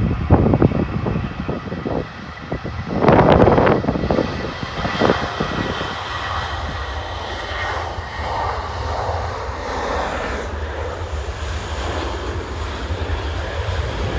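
Jet airliner's engines running, a steady rumble with a faint high whine, while gusts of storm wind buffet the microphone in the first few seconds.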